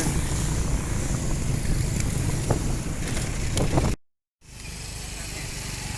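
Road traffic and wind noise heard from a moving bicycle, a steady rushing haze. The sound drops out completely for about half a second about four seconds in and comes back quieter.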